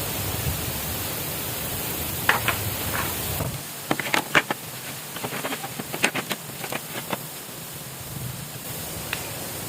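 Steady rushing water noise, with a cluster of short, sharp knocks and clicks from about four to seven seconds in.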